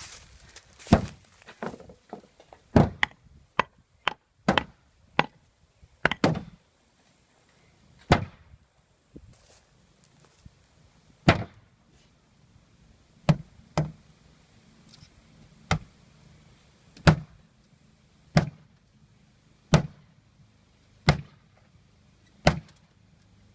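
Heavy maul blows on a junk refrigerator's body, sharp metallic whacks. There is a quick flurry of hits in the first six seconds or so, then single strikes come steadily about every second and a half.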